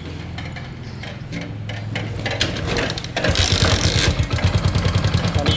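Freshly rebuilt and rebored Hero Honda Passion Plus single-cylinder four-stroke motorcycle engine running at idle. About three seconds in it gets louder, with a fast, even pulsing.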